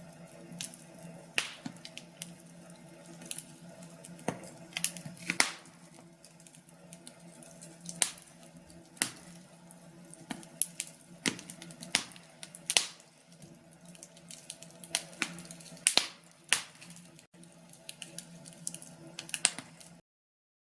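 Wood fire crackling in a fireplace, with irregular sharp pops and snaps over a faint steady low hum; it cuts off suddenly near the end.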